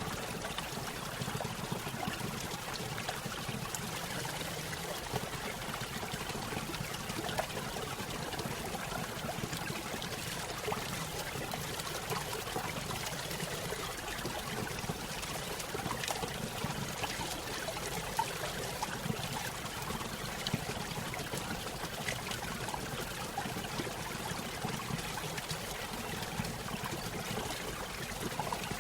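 Small stream running over a little waterfall: steady splashing and trickling of water, with many small drips and splashes.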